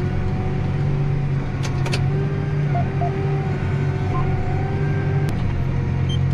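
John Deere 8270R tractor's six-cylinder diesel running steadily under load, heard from inside the cab during a headland turn with the drill. A pair of short electronic beeps from the cab's guidance or monitoring system sounds a little under halfway, with another single beep shortly after.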